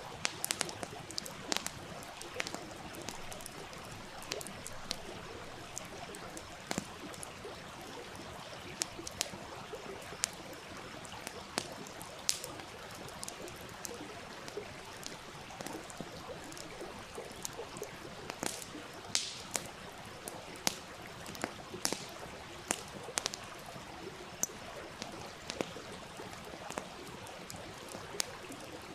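Wood fire crackling and popping in irregular sharp snaps over the steady rush and trickle of a stream.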